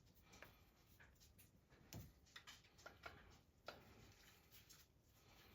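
Near silence with a handful of faint clicks and light knocks, about six, scattered through the first four seconds.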